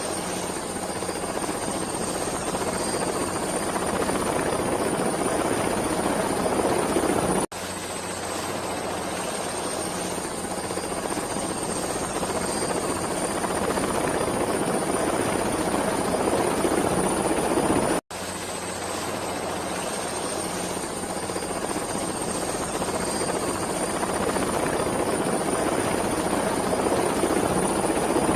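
Helicopter sound effect: steady rotor and engine noise with a high whine, played as a loop that swells louder over about ten seconds, then cuts out abruptly and restarts, twice.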